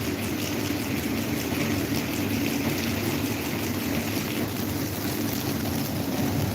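Electric table fan running steadily: an even whoosh of moving air over a low motor hum.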